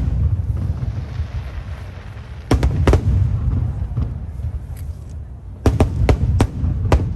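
Aerial firework shells bursting over a continuous low rumble. There is a pair of sharp bangs about two and a half seconds in and a cluster of four more near the end.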